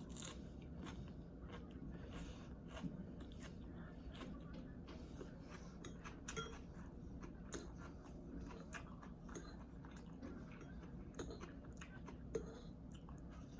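Close-miked chewing of a mouthful of rice-vermicelli noodles (pancit bihon), with many soft wet mouth clicks scattered throughout.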